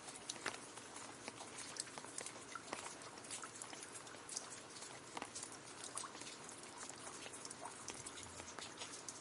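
Gentle rain falling on leaves: a soft steady hiss with many scattered drop taps.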